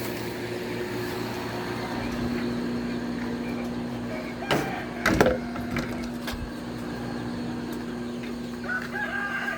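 Chickens clucking over a steady low hum, with two loud knocks about halfway through and a rooster starting to crow near the end.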